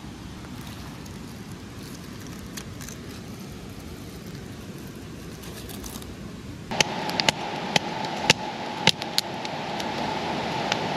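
Campfire crackling and popping, with sharp snaps that get louder and more frequent from about two-thirds in, over a steady rushing background noise.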